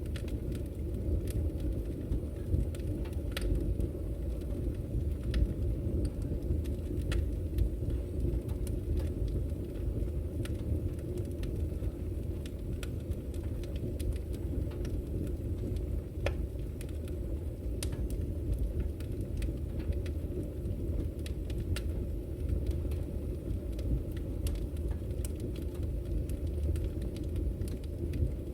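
Wood fire burning in a fireplace, with scattered sharp crackles and pops over a steady low rumble.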